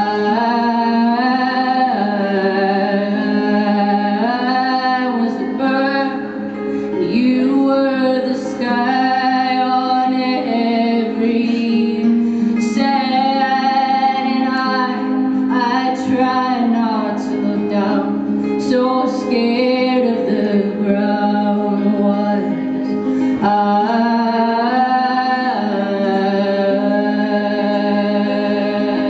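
A woman sings with acoustic guitar in a live song performance, holding long notes that glide between pitches.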